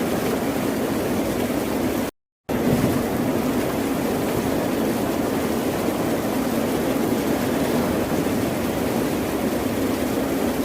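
Steady wash of ocean surf with no distinct breaks. About two seconds in it cuts out completely for about a third of a second, then resumes.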